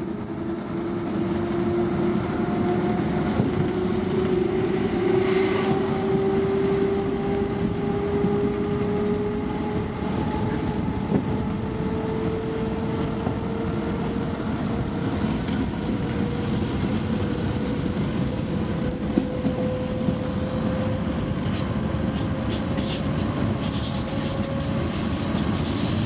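ICE 1 (class 401) high-speed train accelerating: the whine of its traction drive climbs slowly and steadily in pitch over the rumble of the running gear. Near the end a rapid run of clicks comes in.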